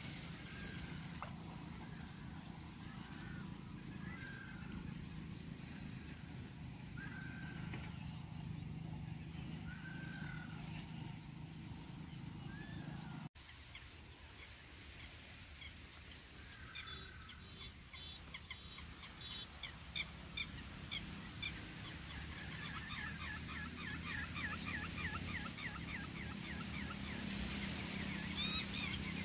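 Wild birds calling: a short call repeated about every second and a half, then after a sudden break a quicker run of high, rapid notes that builds toward the end, over a steady low hum.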